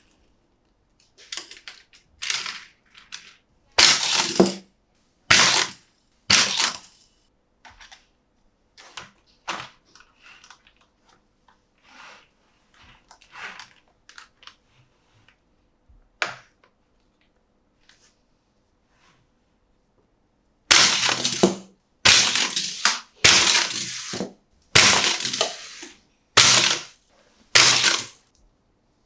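Monster Jam toy packaging being opened and handled: a string of sharp crackling bursts, each under a second, scattered at first with a loud run a few seconds in and another quick run of loud ones near the end.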